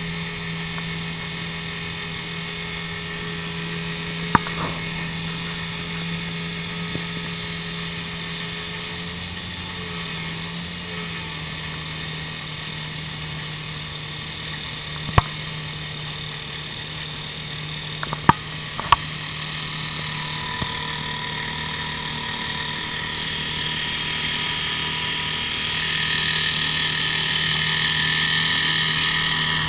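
A small boat's motor running steadily with a constant hum, with a few sharp knocks about 4, 15 and 18 seconds in. It grows a little louder toward the end.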